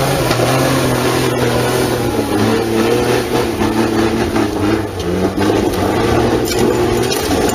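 Vehicle engine running loud under hard throttle, its pitch wavering up and down.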